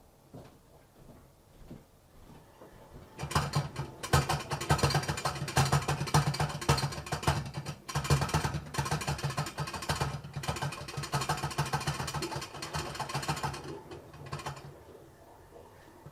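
Kitchen drain plumbing giving off a loud rattling buzz, with a steady low hum and rapid clicking, as bathtub water drains through it. It starts about three seconds in, lasts about eleven seconds and fades out.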